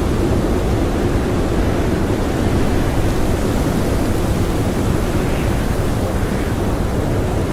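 Strong blizzard wind blowing steadily, a deep, even rush with no gusts or breaks standing out.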